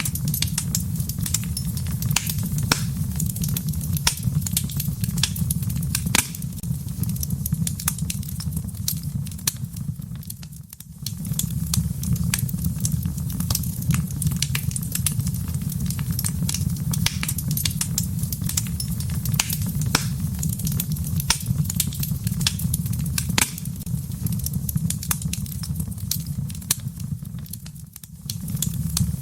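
Wood fire crackling in a fireplace: frequent sharp pops and crackles over a steady low rumble of the flames, easing off briefly twice.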